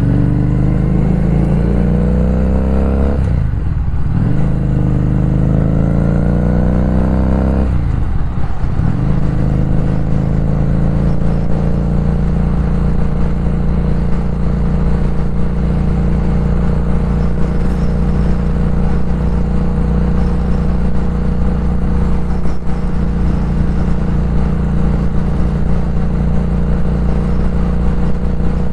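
Motorcycle engine pulling away and accelerating, its pitch climbing and then dropping at two gear changes about three and a half and eight seconds in, then running at a steady cruising speed.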